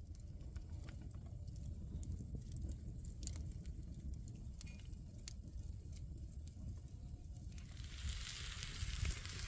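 Small cooking fire crackling with scattered sharp pops over a low rumble. About seven and a half seconds in, a steady hiss sets in.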